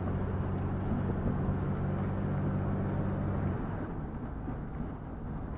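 Vehicle engine running with a steady low hum that eases off and turns rougher about three and a half seconds in.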